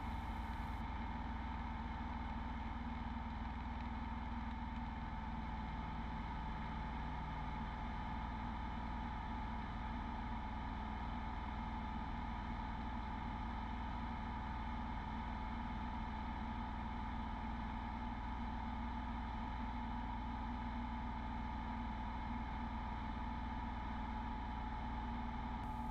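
Beechcraft Bonanza V35's piston engine running at a steady drone, heard from inside the cockpit during the takeoff and climb-out.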